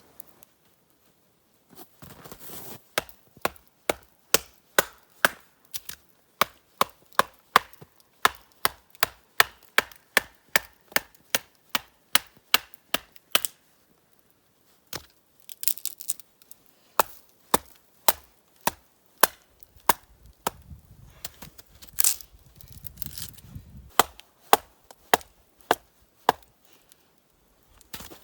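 Firewood being chopped with a blade: a fast, regular run of sharp chops, about two or three a second, then after a short pause slower, more irregular strokes.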